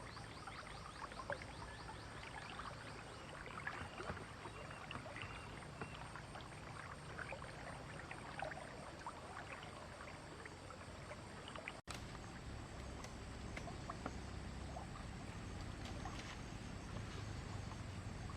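Water splashing and trickling in small irregular bursts over a low steady rumble, cut by a brief gap about twelve seconds in.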